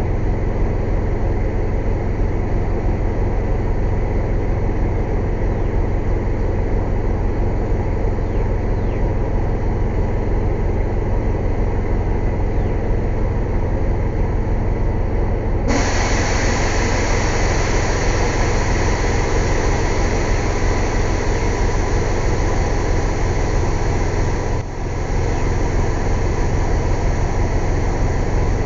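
Air compressor running with a steady low drone. About halfway through, a loud steady hiss of rushing compressed air joins it, breaking off for a moment near the end.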